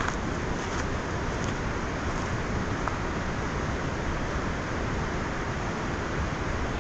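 Waterfall's falling water rushing as a steady, even roar.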